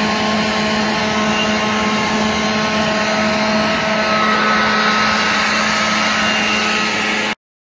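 Homemade 5-gallon bucket shop vac running, its salvaged vacuum motor and centrifugal impeller giving a steady whining drone with rushing air. It cuts off abruptly near the end.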